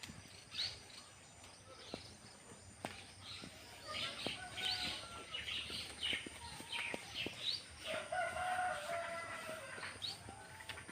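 Nestling birds cheeping in the nest: a rapid, uneven series of short, high chirps that thickens from about four seconds in, with a longer, lower call near the end.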